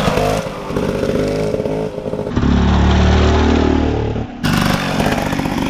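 Two-stroke KTM 300 dirt bike engine revving and running hard as the rider pulls wheelies, its pitch rising and falling. The sound changes abruptly twice, with a deeper, heavier engine note in the middle stretch.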